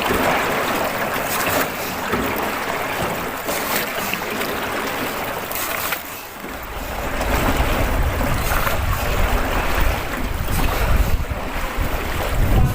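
Wind and water noise from a small river boat ride: an even hiss throughout. From about six and a half seconds in, wind buffets the microphone with a low rumble.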